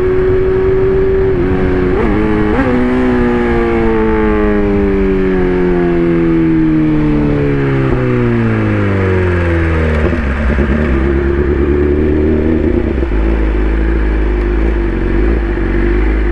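Inline-four sportbike engine held at high revs, with a short jump in pitch about two seconds in, then revs falling smoothly over several seconds as the bike slows, settling to a low steady running from about ten seconds in.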